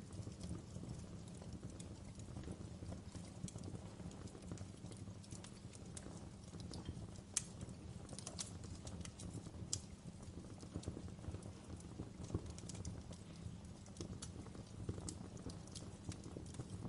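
Wood fire in a fireplace crackling: irregular sharp pops and snaps over a low, steady rumble, with the loudest pop about seven seconds in.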